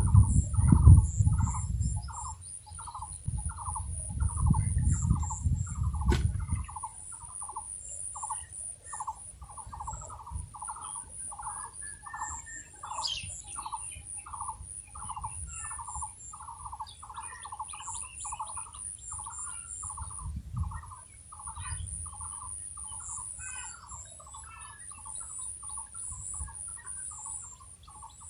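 A bird calling the same short note over and over, evenly, about twice a second. A low rumble is the loudest sound for the first six seconds, then dies away.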